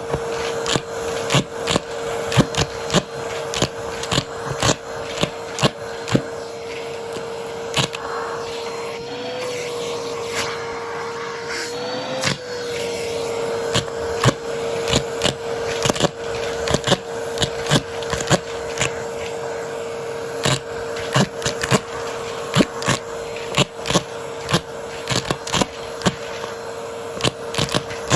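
Vacuum cleaner running with a steady motor whine while coins are sucked up, rattling and clicking through it in quick, irregular hits. The motor's pitch wavers briefly twice near the middle.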